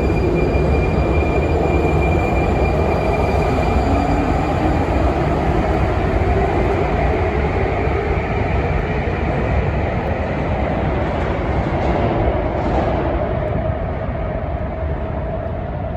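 Metro train running through the station with a loud, steady rumble and a thin high whine that fades out a few seconds in; the sound grows somewhat quieter near the end.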